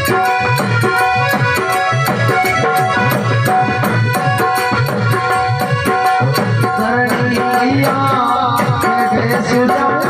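Instrumental passage of a live Rajasthani devotional bhajan: held chords over a steady hand-drum beat with rattling percussion. A wavering melody line comes in about seven seconds in.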